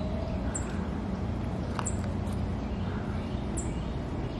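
Thin, very high bird calls, a short falling note every second or so, over a steady low rumble of outdoor background noise.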